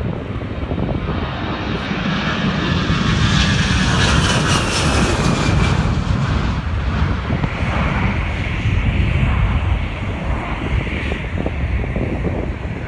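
Jet aircraft passing close by. Broad engine noise swells to its loudest a few seconds in, with a high whine that falls in pitch as the aircraft goes past, then eases off slightly.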